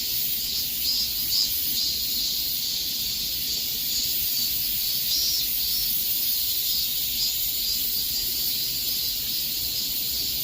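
A chorus of cicadas buzzing in a steady, high, shrill drone that pulses slightly.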